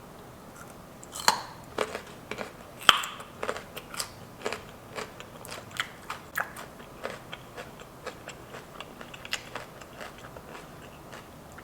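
Biting into a raw carrot stick and chewing it, with crisp crunches. There are two loud snapping bites, about one and three seconds in, then steady crunching at two or three a second.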